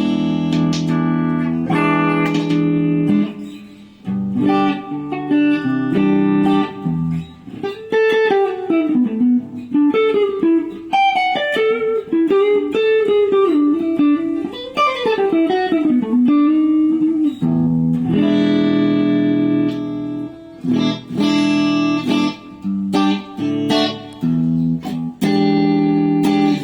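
PRS Custom 22 electric guitar played on a clean tone: ringing chords, then from about eight seconds in a single-note melody with bent, wavering notes, returning to chords after about seventeen seconds.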